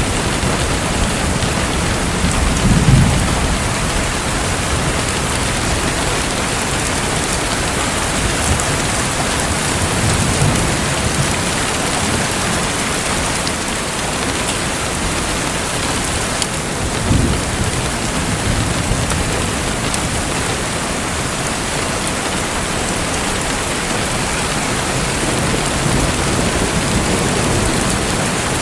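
Steady rushing, splashing water noise, with a brief low rumble about three seconds in and again about seventeen seconds in.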